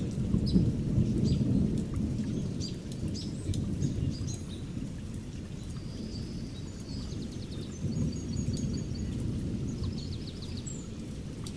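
Outdoor ambience: a low, uneven rumble with birds calling over it, short high chirps throughout and a quick repeated trill about seven to nine seconds in.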